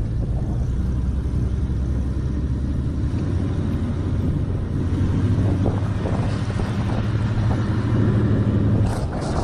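A Jeep's engine running with a steady low drone while the vehicle is driven.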